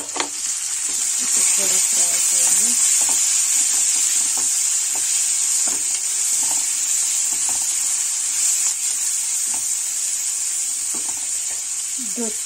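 Chopped tomatoes sizzling in hot oil with fried onions and spices in a nonstick kadhai, stirred with a silicone spatula that scrapes and knocks against the pan. The sizzle swells over the first second or two as the tomatoes are stirred into the oil, then holds steady.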